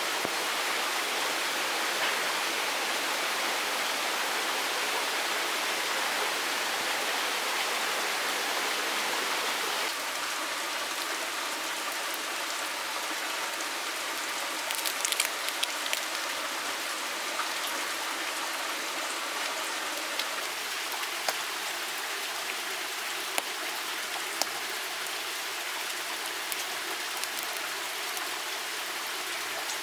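Steady rush of running water. About ten seconds in the sound changes abruptly to a slightly softer, even hiss dotted with scattered sharp ticks and drips.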